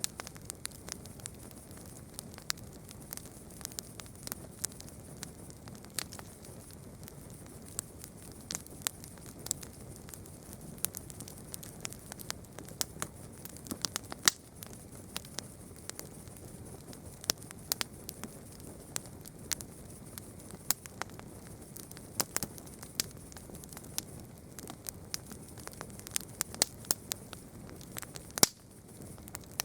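Campfire burning, the wood crackling and popping in sharp irregular snaps, several a second at times, over a steady low rush and a faint high hiss.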